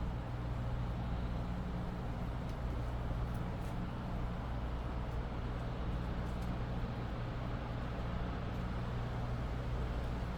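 A steady low mechanical hum with a hiss underneath, holding the same pitch and level throughout, with no thunderclap or rumble swelling up.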